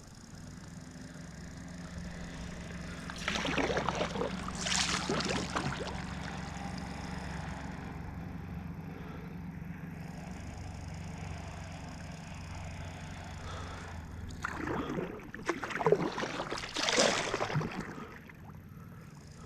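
Kayak paddle strokes splashing and sloshing in lake water, in two spells: a few seconds in and again near the end. A steady low hum runs underneath.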